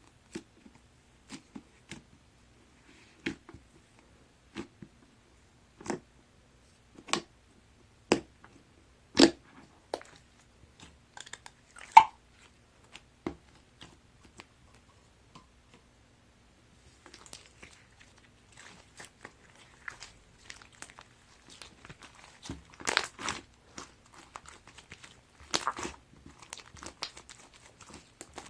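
Crunchy sherbet-textured snow slime being pressed and squeezed by hand. It gives single sharp crunches about once a second at first, then, after a short pause, denser, continuous crackling near the end.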